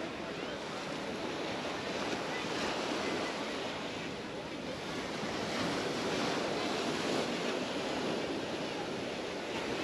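Mediterranean surf washing onto the beach in gentle swells, with some wind on the microphone.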